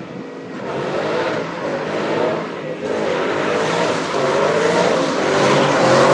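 Car engine running under acceleration over road noise, its pitch wavering and getting louder toward the end.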